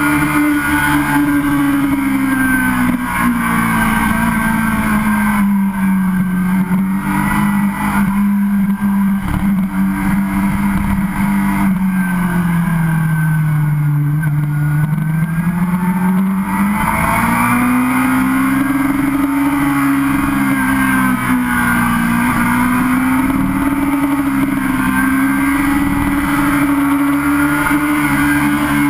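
Sportbike engine running at a steady cruise. Partway through, its note sinks slowly over several seconds as the revs come down, then climbs back and holds steady again.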